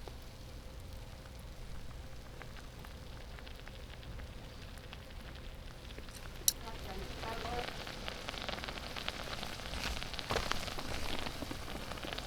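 Egg, chicken and leek simmering in a skillet over a wood fire, with a constant crackling sizzle. A sharp click comes about six and a half seconds in, after which the sizzling grows louder and busier.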